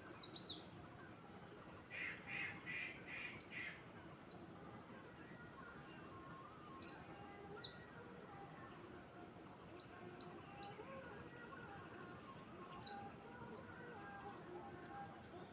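A songbird repeating a short, high phrase of quick falling notes about every three seconds. About two seconds in, a second call of around five evenly spaced notes, lower in pitch, overlaps it.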